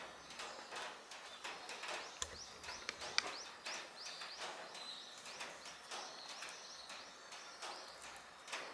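Light irregular clicks and taps, several a second, with a bird chirping a quick run of short rising notes about four seconds in.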